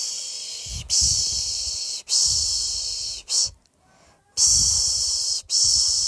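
A person shushing 'pish, pish' to lull a baby to sleep: long hissing strokes about one a second, in groups of three long and one short, with a short pause in the middle.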